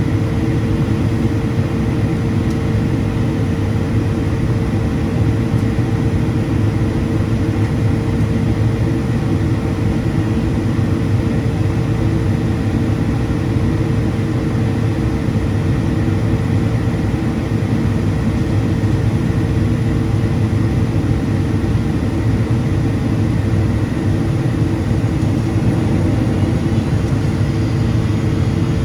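Steady in-cabin drone of a Boeing 777-200ER in flight on arrival: its GE90-92B turbofans and the rush of air past the fuselage make a dense low rumble with a steady hum just under 500 Hz, unchanging throughout.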